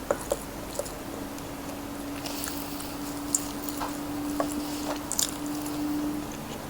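Close-miked eating of crispy fried chicken: scattered crisp crunches and wet chewing clicks, over a steady low hum.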